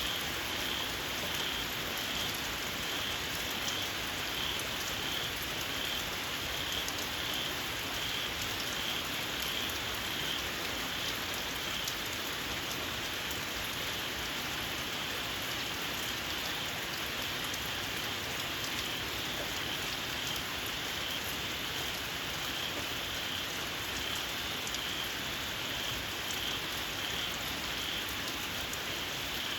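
Steady rain falling, with small field frogs giving a shrill, squealing call repeated about one and a half times a second throughout.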